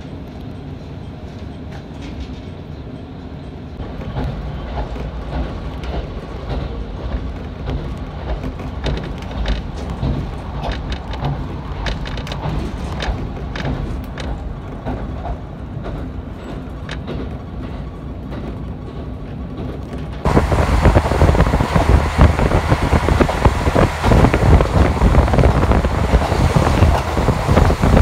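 Diesel railcar pulling away and gathering speed, heard from inside the car: a low engine hum that grows louder about four seconds in, with sharp wheel clicks over rail joints. About twenty seconds in the noise suddenly becomes much louder and rougher.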